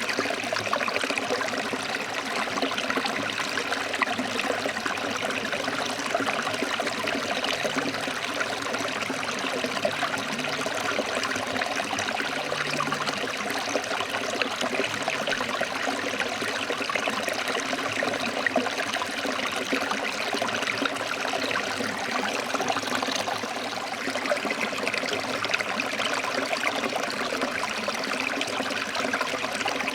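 Stream water flowing and splashing over rocks, a steady rushing and babbling.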